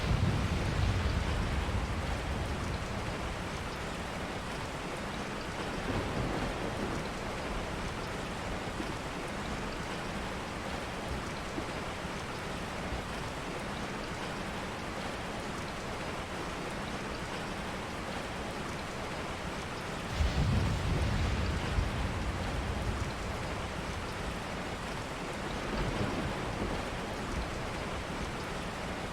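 Steady rain, with low rumbles swelling up several times, the strongest about two-thirds of the way through.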